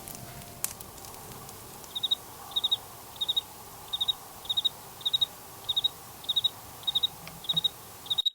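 A cricket chirping steadily, about two short pulsed chirps a second, over a faint steady hiss.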